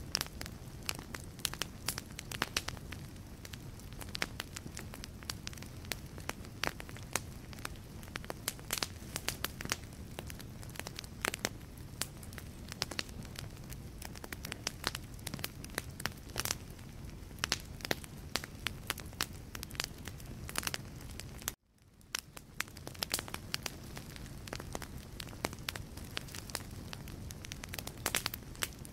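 Wood logs burning in a fireplace, crackling and popping with many irregular sharp snaps over a low steady rumble of the flames. About three quarters of the way through, the sound drops out for a moment and then fades back in.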